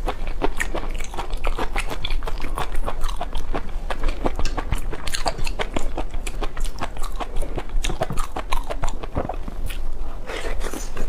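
A person chewing and biting food close to the microphone, with many sharp, irregular clicks of eating throughout.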